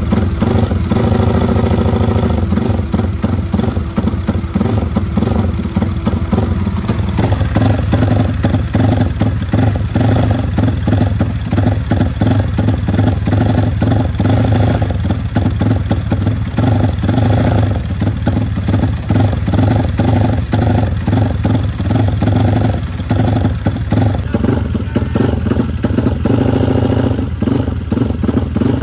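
Yamaha Vixion motorcycle's single-cylinder four-stroke engine, tuned as a drag-race (FFA class) engine, running steadily and loud with little change in pitch.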